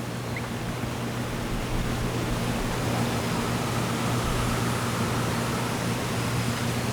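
Steady outdoor ambience: an even hiss with a low hum beneath it, growing slightly louder over the first few seconds.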